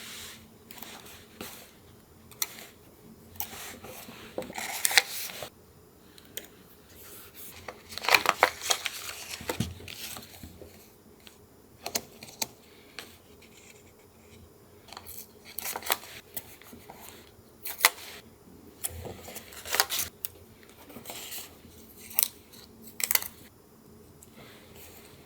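Paper being handled for a junk-journal collage: scattered taps, clicks and crinkles, with longer stretches of rustling paper about four seconds in and again about eight seconds in.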